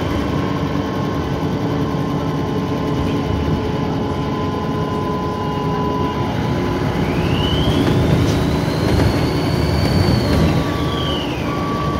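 Dennis Trident 2 double-decker bus engine running under way, with a loud turbocharger whine that rises in pitch about seven seconds in, holds high for a few seconds, then glides back down near the end.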